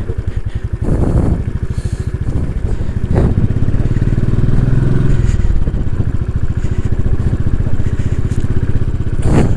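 Royal Enfield 500 single-cylinder motorcycle engine running at low speed, its revs rising and falling as the bike is ridden slowly over ice. A brief sharp noise comes near the end.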